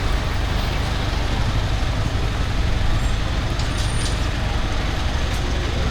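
Steady street traffic noise: a continuous low rumble of road vehicles with an even wash of noise over it.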